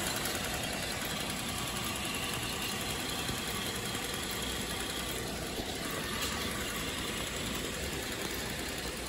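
A 2010 Buick Enclave's 3.6-litre V6 idling steadily, heard close up in the open engine bay.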